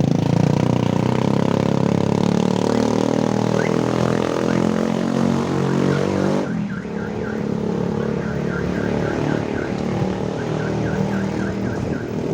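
Motor vehicle engine running in road traffic, a loud steady pitched hum that eases off about six and a half seconds in. From then on, runs of five or six short quick chirps repeat, like an alarm or signal beeper.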